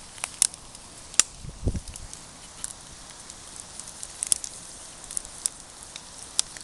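Campfire crackling over a steady hiss, with about half a dozen sharp pops scattered through it and one dull thump about a second and a half in.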